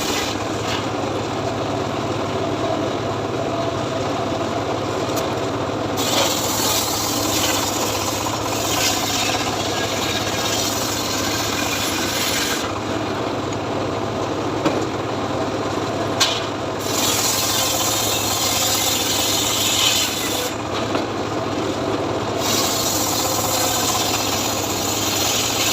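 Homemade engine-driven saw cutting teak wood: the engine runs steadily under a rasping sawing noise that comes and goes in stretches of several seconds.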